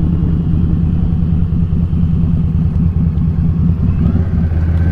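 Indian Scout Sixty's liquid-cooled V-twin engine running steadily while the motorcycle is ridden at a constant pace.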